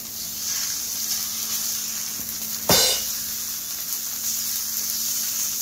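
Salmon pieces sizzling in hot oil in a wok, a steady frying hiss. About halfway through comes one brief, sharp, loud burst.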